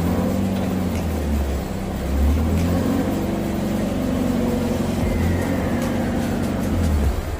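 Mazda Miata's engine running at low speed as the car is driven slowly, its low engine note rising and easing a little.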